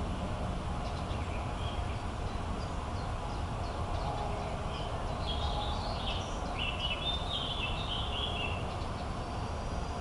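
Small birds chirping and twittering over a steady low rumble. The calls grow into a busier run of song from about halfway through until near the end.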